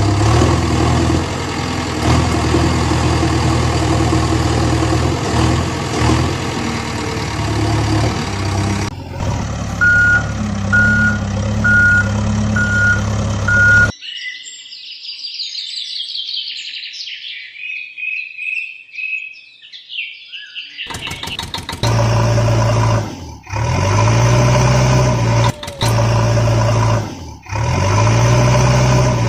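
Cartoon sound effects for heavy machinery. First a heavy vehicle engine runs steadily. Then a quieter engine plays under a reversing alarm beeping about once a second, followed by several seconds of bird chirps alone. Near the end a steady engine sound returns in short repeated stretches broken by brief gaps.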